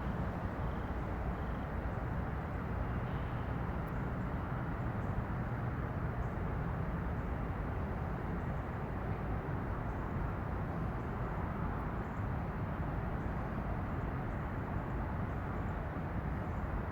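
Steady outdoor background noise with a continuous low rumble and no distinct events.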